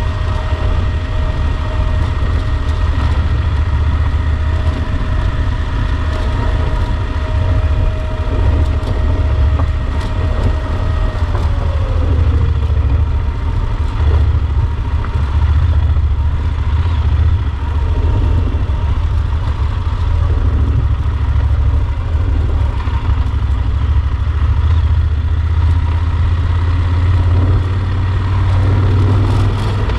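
Yamaha Super Ténéré XT1200 parallel-twin engine running steadily under way. Its note holds, then drops in pitch about eleven seconds in.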